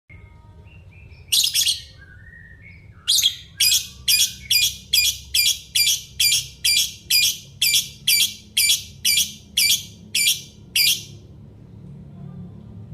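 Pet parrot calling: one loud harsh screech, a few soft chirps, then a run of about seventeen harsh screeches at roughly two a second before it falls quiet.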